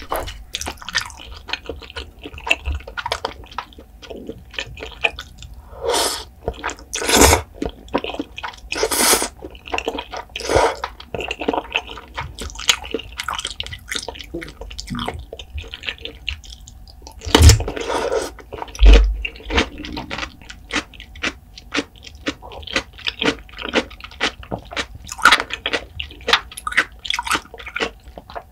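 Close-miked chewing of saucy cheese carbonara fire noodles: a steady run of wet, sticky mouth clicks and crackles. There are a few longer, louder wet sounds about a quarter and a third of the way in, and a couple of low thumps a little past halfway.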